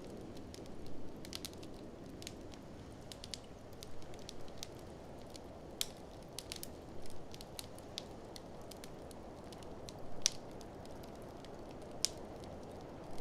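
Wood fire in a fireplace crackling, with irregular sharp pops, the strongest about ten seconds in, over a steady low rushing noise.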